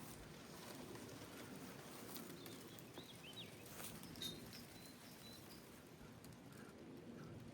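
Quiet outdoor ambience with a faint steady hiss, a few short bird chirps in the middle, and scattered light ticks.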